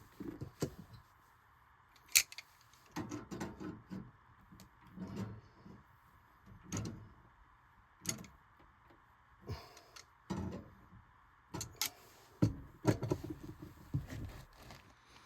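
Irregular handling noises: scattered sharp clicks and knocks with short bouts of scraping and rustling, as of tools and parts being handled.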